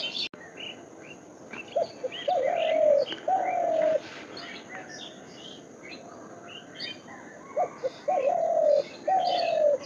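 A dove cooing in two phrases, each a couple of short notes followed by two longer, falling coos, with small birds chirping in the background.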